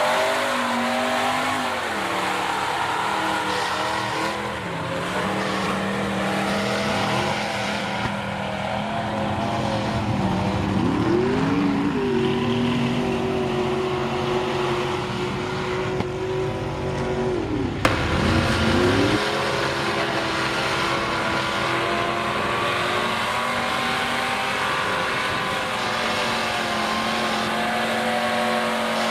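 Mega mud truck engines with open headers running loud, revving up and down in sweeps, with the biggest rises about a third of the way in and again past the middle.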